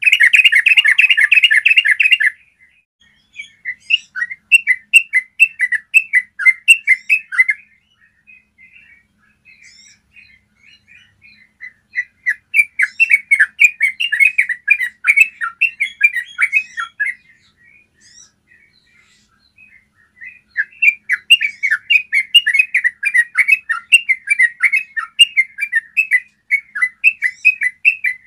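Yellow-vented bulbul singing its long, rapid rolling song ("ropel"), clear chattering notes strung together in fast runs. A dense buzzy burst fills the first two seconds, then three long runs of quick notes follow, each separated by a pause of a few seconds.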